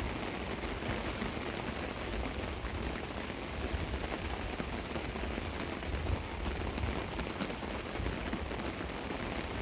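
Steady rain falling on a tarp: an even hiss of drops with scattered faint ticks and a low uneven rumble underneath.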